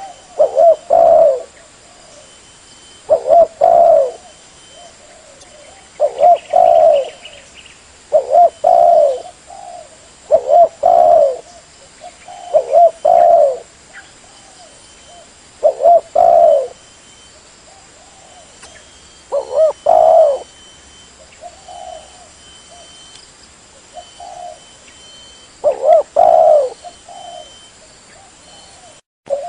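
Spotted dove cooing: about ten short phrases of a few coos each, repeated every two to three seconds, a few of them fainter.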